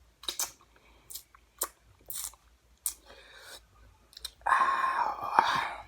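Close-up crunching and chewing of Flamin' Hot Cheetos: a string of short, sharp crunches, then a louder, rougher noise lasting about a second and a half near the end.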